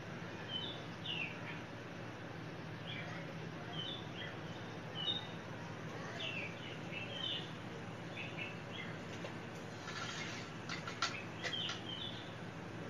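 Small birds chirping in the background, short high chirps scattered throughout, over a steady low room hum. Near the end come a few light clicks of a spoon against a steel plate.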